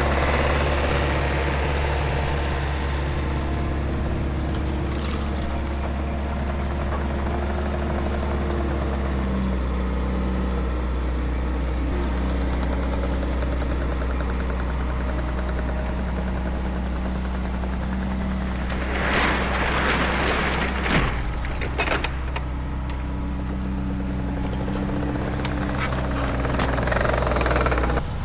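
Bobcat T66 compact track loader's diesel engine running steadily while warming up, its pitch shifting a few times. A louder noisy rush comes about two-thirds of the way through.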